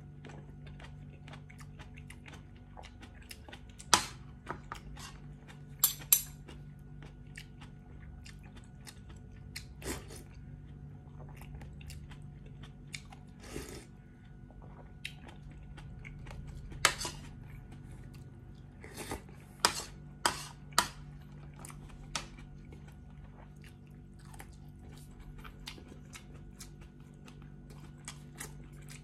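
Close-up eating sounds: chewing and crunchy bites of bulalo meat and vegetables with rice, broken by sharp clicks of a spoon and fork against the plate, loudest several times in the middle and around twenty seconds in. A steady low hum runs underneath.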